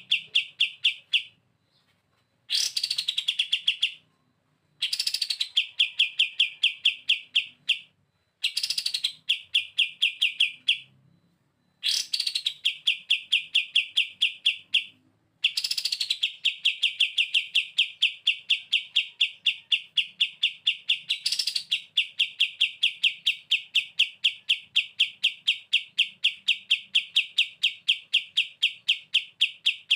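Kapas tembak bulbul singing its 'bren': fast, even rattles of repeated notes, each run opening with a quick falling whistle. The runs last a few seconds with short pauses between them, and the last holds unbroken for about fourteen seconds.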